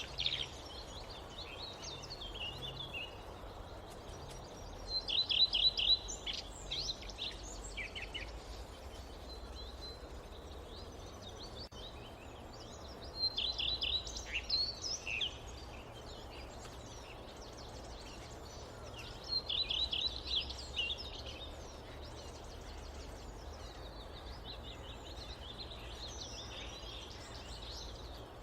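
A songbird singing a short phrase of rapid high notes, repeated about every seven seconds, over a steady background hiss of forest ambience.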